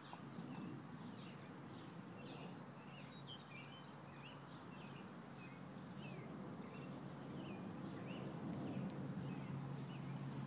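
Small birds chirping, many short quick calls one after another, over a steady low hum that grows louder near the end.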